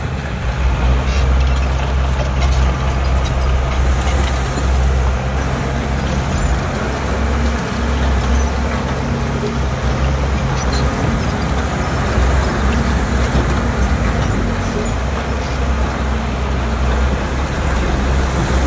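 Heavy diesel engine of earthmoving equipment running steadily, a loud low drone with a few faint clicks over it.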